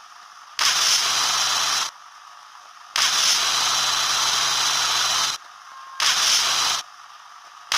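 Repeated bursts of steady hiss, each about one to two and a half seconds long, with short quiet gaps between them; four bursts, the last starting near the end.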